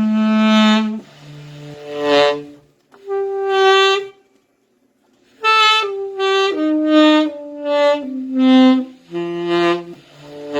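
Saxophone playing held notes that swell from soft to loud and fade, a dynamics exercise in controlling volume on each note. After a short pause about four seconds in, it plays a quicker run of notes stepping mostly downward.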